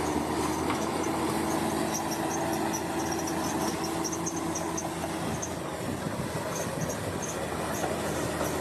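Bulldozer running steadily, with a continuous engine note and scattered short high squeaks throughout.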